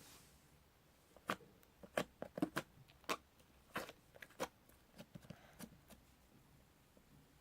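Slime being played with by hand, giving a run of irregular sharp clicks and pops, about a dozen over a few seconds.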